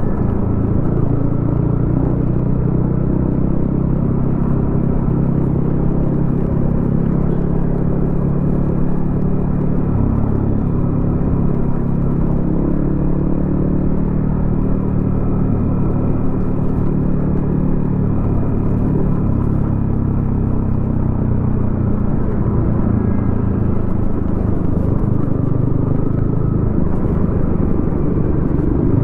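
Yamaha XSR155's single-cylinder engine running through a DIY exhaust, a steady exhaust note with only small shifts in pitch as the bike rides in traffic.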